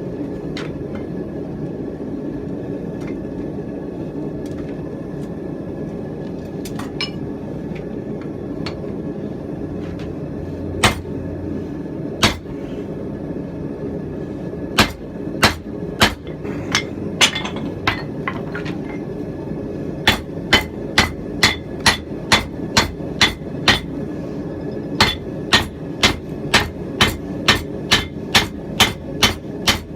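Hand hammer blows on hot steel against an anvil, forging the cheeks of a rounding hammer head. A few scattered strikes come first, then steady runs of about three blows a second in the second half, over a constant low rush.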